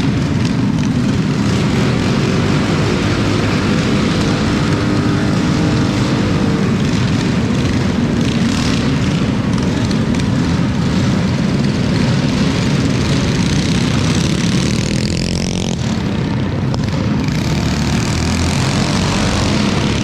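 Small single-cylinder minibike engines running hard, a continuous buzzing drone whose pitch rises and falls, with a sweep in pitch about three quarters of the way in as a bike passes.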